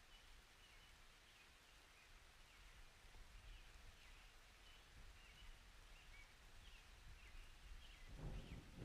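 Faint outdoor ambience: small birds chirping over and over, over a low rumble. Near the end a rush of noise swells in.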